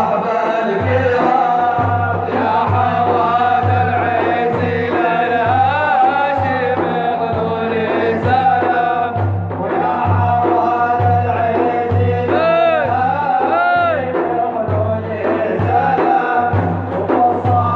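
Madih, an Islamic praise song in Middle Eastern style: a melody sung with wavering, ornamented turns and vibrato over a steady low drumbeat.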